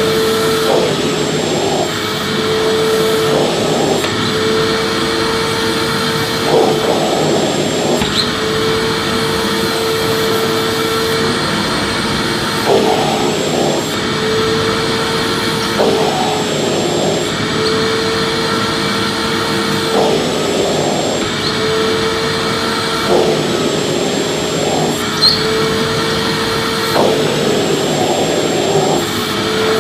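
Vacuum cleaner running continuously with a steady whooshing drone, its motor tone briefly dipping and wavering every few seconds.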